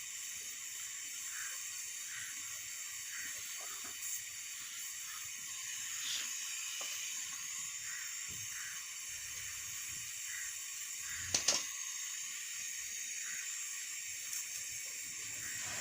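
A steady high hiss with a few faint clicks, and a brief knock about eleven seconds in.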